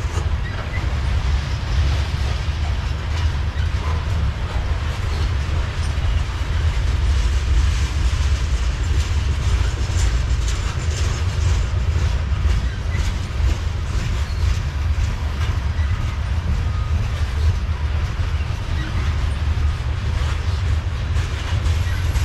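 Covered hopper cars of a freight train rolling past on the rails: a steady low rumble with a hiss of wheels on rail and scattered sharp clicks from the wheels.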